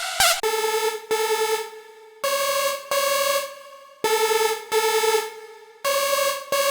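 Xfer Serum 2 synth lead preset playing a simple melody of held notes in pairs, each note struck twice before the pitch steps between a lower and a higher note. Just before it, a few clipped short notes from the previous preset end about half a second in.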